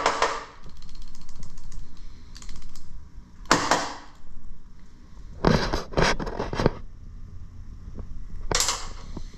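Metal tools and parts clinking and clattering: several separate bursts of knocks and rattles.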